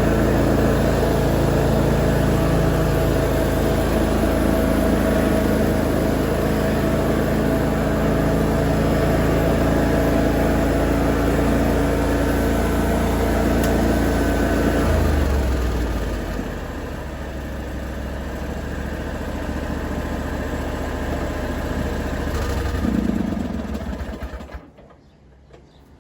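Lawn mower engine running steadily. About halfway through it slows to a lower, quieter run, and near the end it cuts off.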